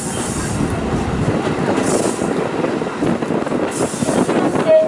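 Furano–Biei Norokko sightseeing train running along the track, a steady rumble of wheels on rails heard from on board, with a few brief surges of hiss.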